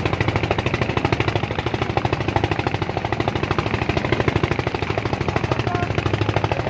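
Small engine running steadily with a rapid, even chugging beat.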